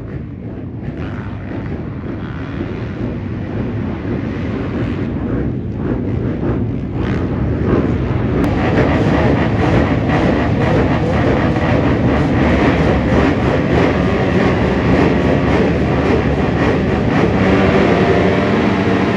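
Off-road racing engines running hard on a motocross track, several machines at once. The sound builds over the first eight seconds, grows fuller and brighter, then holds steady and loud.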